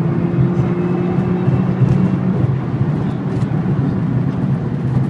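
Vehicle engine running at a steady speed, a level drone with road and wind noise, with no change in pitch.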